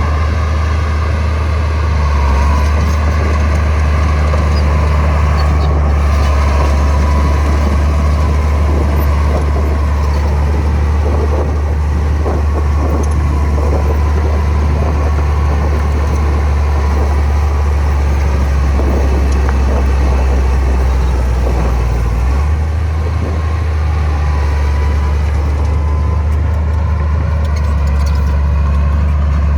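Heavy diesel engine of a Komatsu bulldozer running steadily at work, its note shifting about two seconds in and again a little past twenty seconds, with a faint high whine above the rumble.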